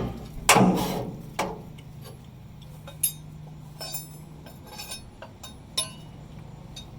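Hammer taps on metal, two ringing strikes in the first second and a half, while a fuel pump assembly part is tapped into place through its groove; after that come lighter metallic clicks and clinks of tools being handled.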